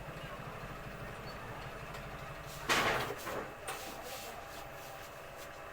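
Stranger 501 audio amplifier running with the volume up, giving a steady low buzzing hum instead of clear sound; the fault is a burnt capacitor, which the repairer puts down to overvoltage. A brief scraping noise comes a little before halfway.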